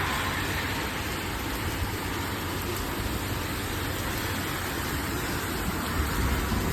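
Steady rush of strong thunderstorm wind, with an irregular low rumble of gusts buffeting the microphone.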